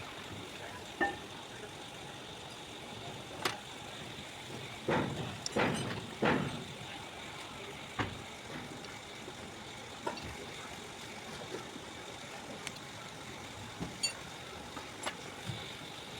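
Hand tools and engine parts clicking and knocking on metal now and then, a dozen or so short sharp strikes with a louder cluster about five seconds in, over a steady background hiss.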